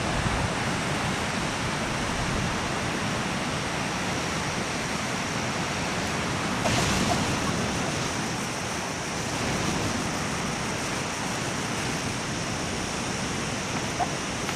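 Ocean surf washing onto a beach, a steady rushing wash that swells briefly about seven seconds in.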